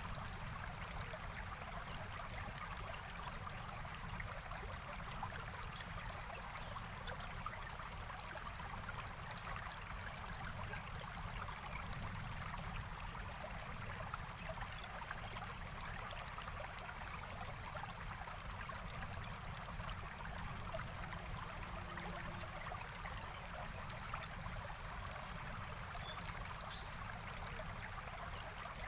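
Forest stream flowing steadily, with a couple of faint high bird chirps near the end.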